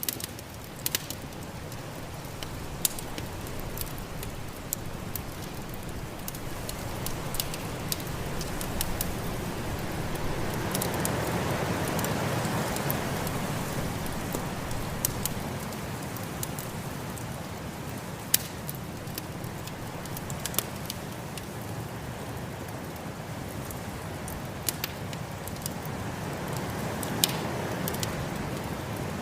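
Wood fire crackling with scattered sharp pops over the steady rush of snowstorm wind, which swells in a gust about halfway through and rises again near the end.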